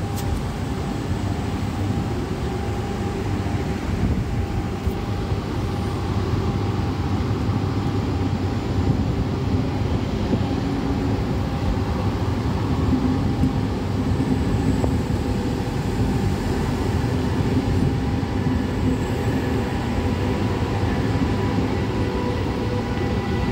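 VR Sm3 Pendolino electric train rolling along the platform: a steady rumble of wheels on rails, with several steady whining tones from its electric traction equipment.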